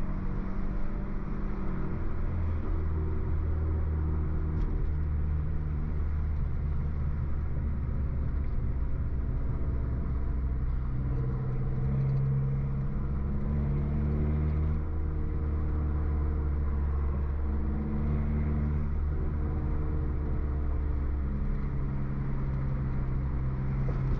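Stage 2 tuned BMW F30 328i's turbocharged four-cylinder engine and modified exhaust running steadily under way, the engine note shifting up and down every few seconds with changing revs.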